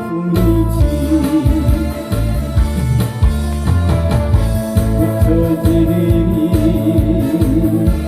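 Trot backing track playing its instrumental introduction through a PA: a lead melody over bass and drums with a steady beat.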